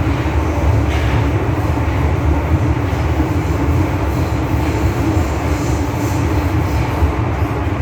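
MTR Tsuen Wan Line M-Train running between stations: a steady rumble of wheels on rail and running gear, with a steady hum underneath.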